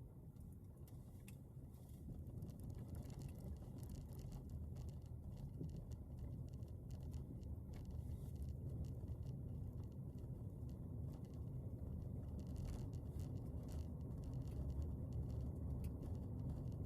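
Low vehicle rumble growing steadily louder, with scattered light clicks and ticks over it.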